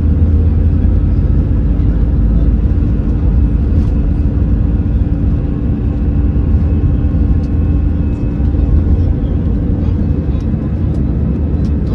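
Cabin noise inside an Airbus A320-214: a steady, loud low rumble of the CFM56 jet engines, with a few faint steady whining tones above it.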